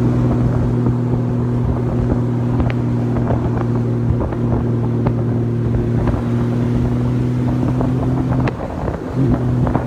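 Honda Valkyrie's flat-six engine running at a steady cruise under way, a constant hum with wind noise on the microphone; the note breaks off briefly near the end and then picks up again.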